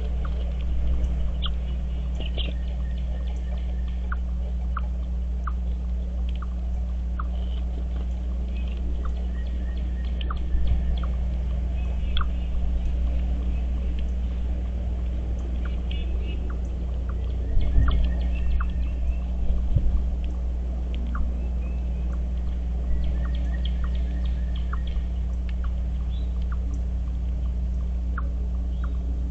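Faint sharp bird calls and chirps at a feeder, scattered throughout, over a steady low hum. A few soft knocks come about two-thirds of the way through.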